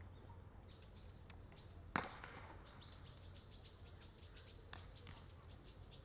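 A bird chirping in a quick run of short, high, falling notes, with one sharp crack about two seconds in.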